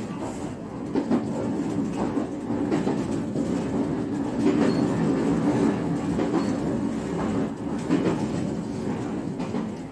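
JR West 125 series electric railcar running along the line: steady wheel and motor running noise, with several clicks as the wheels pass over rail joints.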